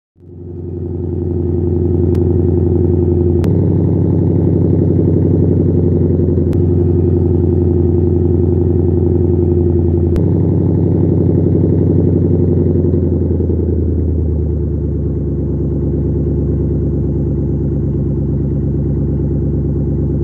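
1999 Ford Crown Victoria's 4.6 two-valve V8, fitted with PI heads, cams and intake, idling from a cold start through its exhaust. It starts at a high, steady fast idle and, about two-thirds of the way through, eases down to a slightly lower, quieter idle.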